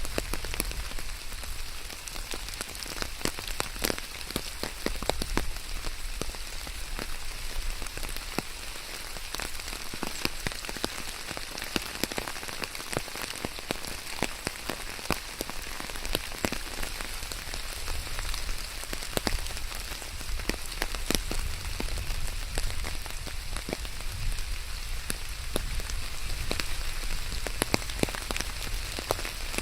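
Steady rain, with many individual drops ticking and pattering sharply on a hard surface close by.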